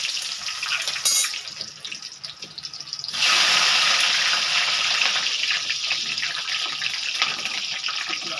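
Brinjal (eggplant) pieces sizzling as they deep-fry in hot oil in a kadhai. The sizzle eases for a moment, then surges loudly about three seconds in and stays strong.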